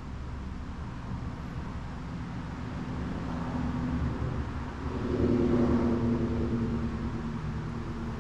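An engine running with a steady low rumble, swelling louder about five seconds in with a clear pitched hum that then eases off.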